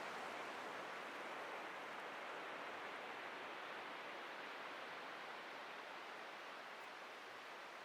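Ocean surf washing on a beach: a steady rush of breaking waves, slowly growing fainter.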